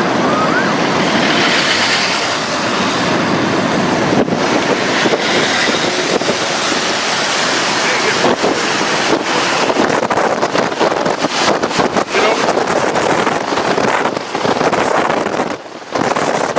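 Strong wind rushing and buffeting a camera microphone: a loud, steady roar of noise broken by frequent sharp gusts and knocks.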